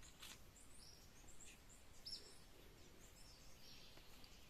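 Near-quiet outdoor background with faint birds chirping: short high chirps repeated several times.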